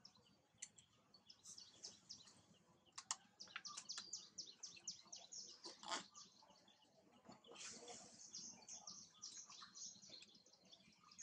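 Faint birdsong from the surrounding trees: two runs of quick, high chirps, each lasting a few seconds.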